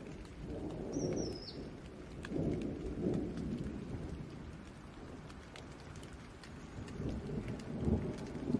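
Steady rain with distant thunder rumbling low, swelling in several waves and loudest near the end. A brief high chirp is heard about a second in.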